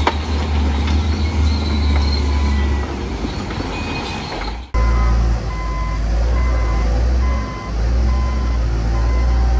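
Bulldozer's diesel engine running with a heavy low drone. About halfway through the sound breaks off abruptly, then the engine carries on with a reversing alarm beeping a little over once a second.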